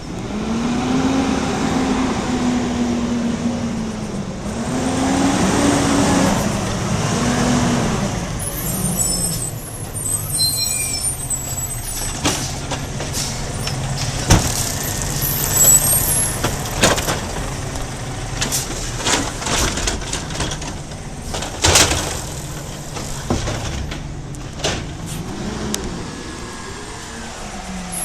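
Garbage truck engine revving up and down several times, then running steady, with scattered knocks and clatter.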